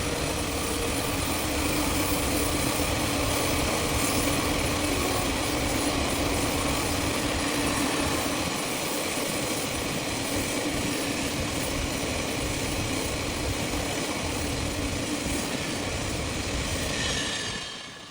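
A train running steadily: a constant rumble with a steady hum running through it, dropping away sharply about a second before the end.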